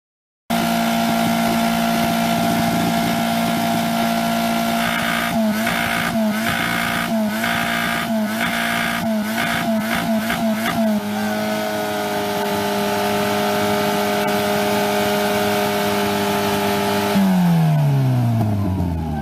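Citroën AX four-cylinder engine screaming at high revs, held flat out while the car is being thrashed to destruction. Around the middle the revs dip briefly again and again, then hold steady. Near the end they fall away smoothly as the engine winds down, with blue oil smoke pouring from it.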